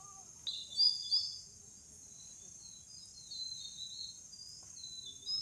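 Natural ambience: insects make a steady high-pitched drone throughout, while small birds chirp and twitter in short high phrases. The chirps are loudest about a second in and pick up again in the last couple of seconds.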